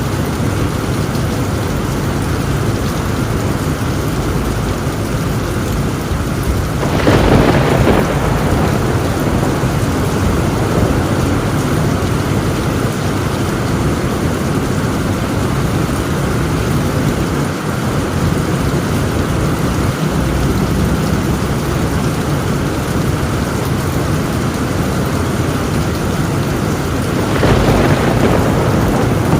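Heavy rain pouring steadily on a tin roof, with two louder thunder rumbles: one about seven seconds in and another near the end.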